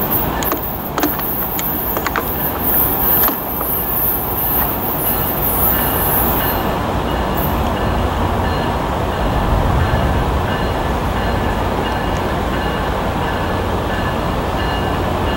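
Tri-Rail commuter train pulling slowly into a station: a steady low rumble of engine and wheels, with a high hiss that cuts off about halfway through. From about six seconds in, a bell rings at an even pace.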